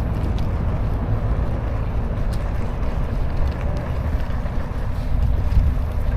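Steady low wind rumble on an action camera's microphone while riding a bicycle, over the noise of road traffic.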